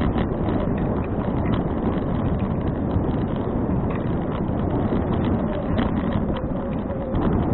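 Wind buffeting an action camera's microphone on a moving bicycle: a steady low rumble, with scattered light clicks and rattles from the bike over the road.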